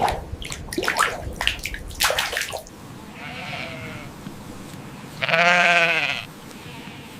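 Water splashing for the first couple of seconds, then a bleating animal call: a soft bleat about three seconds in and a loud, wavering bleat about five seconds in.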